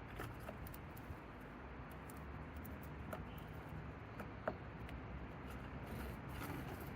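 Light scattered taps and scratches of a small bird moving about and pecking inside a cat house, with one sharper click about four and a half seconds in, over a low steady rumble.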